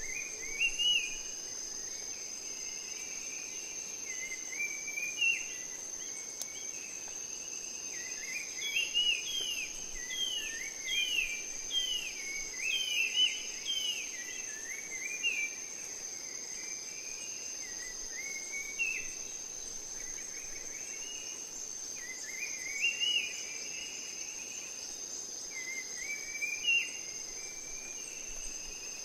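Rainforest ambience: insects keep up a steady, high-pitched drone, while birds give runs of short rising chirps. The chirps are thickest about a third of the way in.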